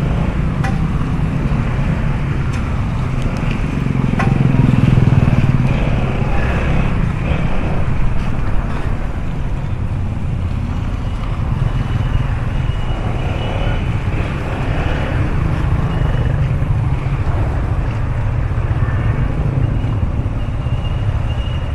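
Motorcycle engine running at low speed in stop-and-go traffic, a steady low rumble with road noise, growing louder for about two seconds around four seconds in.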